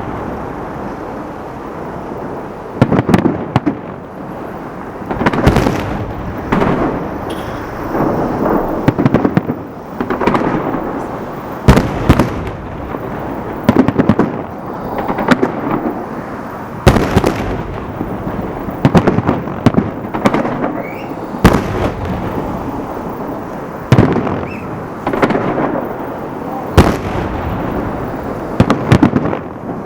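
Fireworks display: aerial shells bursting with sharp bangs every one to three seconds, each followed by a long rumbling echo, with some crackling between the bangs.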